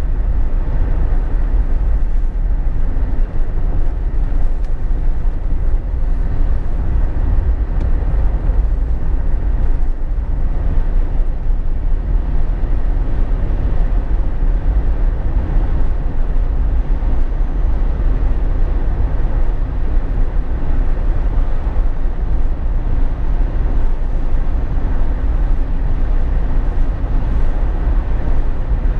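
Steady road and engine noise inside the cabin of a Jeep Wrangler JK driving along, a deep even rumble with no sudden events.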